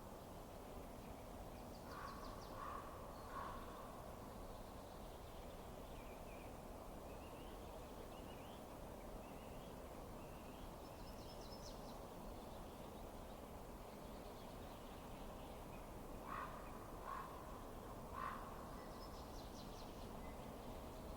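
Faint, steady low noise of a burning fire, without distinct crackles. Over it come two runs of three short calls, about two seconds in and again about sixteen seconds in, with scattered faint high chirps between: bird calls.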